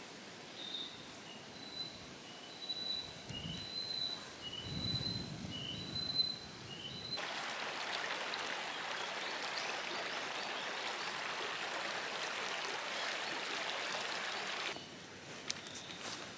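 A bird repeats a high two-note call, a higher note then a lower one, about once a second. About seven seconds in, a steady rushing hiss cuts in abruptly, is the loudest sound, and stops just as suddenly about eight seconds later.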